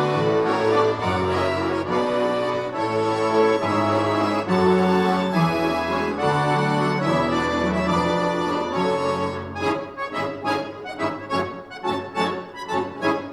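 A bayan orchestra of Russian button accordions playing. Full sustained chords over a moving bass give way, about nine seconds in, to short detached notes.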